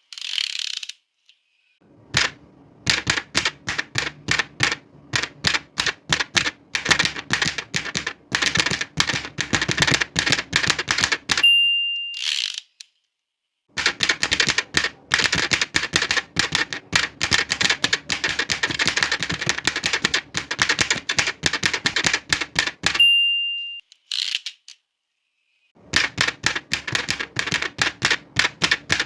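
Old manual typewriter being typed on fast, its keys striking in rapid runs. Twice the end-of-line bell dings, followed by a short sliding carriage return and a pause before typing resumes.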